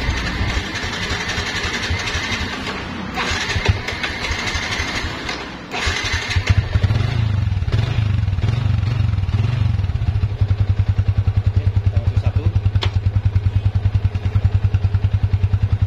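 Yamaha Vixion single-cylinder four-stroke engine running in first gear with the rear wheel driven against a lightly applied rear brake, the throttle opened and eased through the first few seconds. It then settles to a steady, evenly pulsing idle from about six seconds in.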